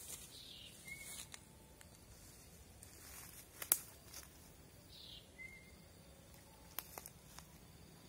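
A bird calls twice, about four seconds apart, each a short falling note followed by a brief lower chirp, faint against quiet outdoor background. A few sharp clicks and snaps of handling sticks and twigs break in near the middle and near the end.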